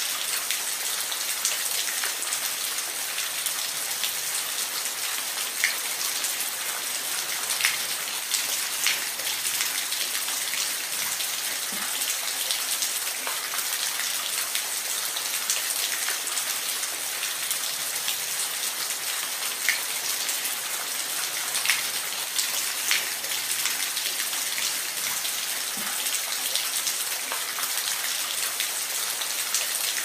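Steady rain, a continuous hiss with scattered individual drops ticking on a surface.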